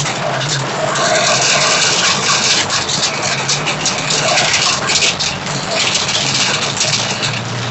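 Torrential rain drumming hard on the body and windscreen of a Suzuki Sierra 4x4, heard from inside the cabin, a dense patter of impacts over the steady low hum of the engine.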